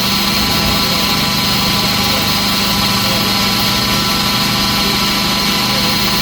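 Steady machine drone with a low hum and a hissing rush, unchanging throughout, with no distinct hammer blows: the constant running noise of forge-shop equipment.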